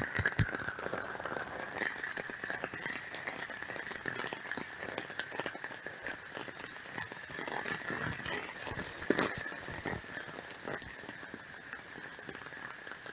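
Heavy rain falling steadily, a dense patter of drops hitting surfaces, recorded through a phone's microphone.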